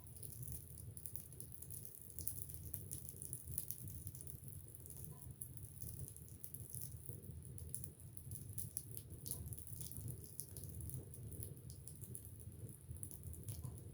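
Wood fire crackling in an open fireplace: frequent small sharp pops and snaps over a steady low rumble of the flames.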